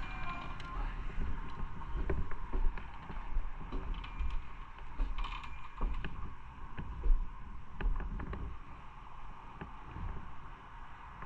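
Riding noise from a moving motorcycle: a steady low wind and road rumble with scattered short creaks and clicks.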